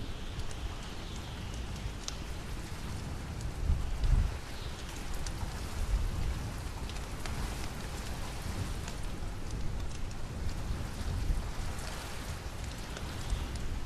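Steady rain falling, with a low rumble swelling about four seconds in and again about two seconds later, and scattered sharp crackles of a wood fire in a fireplace.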